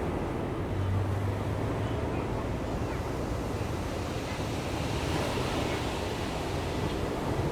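Ocean surf breaking and washing up the beach in a steady, continuous wash, with low wind rumble on the microphone.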